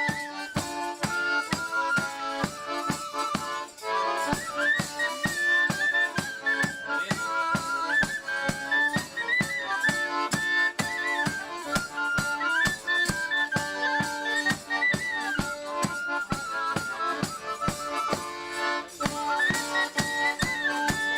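Lively instrumental Ukrainian folk music from a small band of folk musicians: a high, ornamented melody over sustained chords, driven by a brisk, steady percussion beat.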